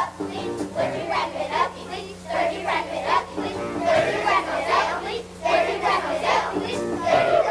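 A group of children's voices singing together in a loud, shouted style, over a steady low hum.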